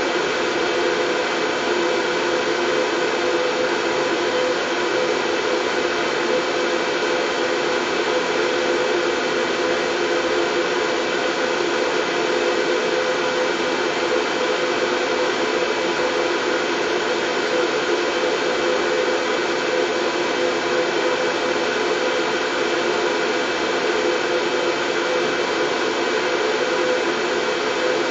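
Steady white noise for soothing a baby: an even, unchanging hiss with a faint steady hum in it, like a hair dryer or fan running continuously.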